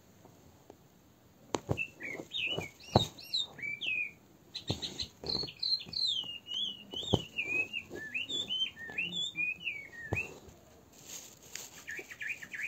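A small bird chirping and warbling in quick high notes that glide up and down, with a few sharp clicks mixed in. It starts about a second and a half in and falls mostly quiet shortly before the end.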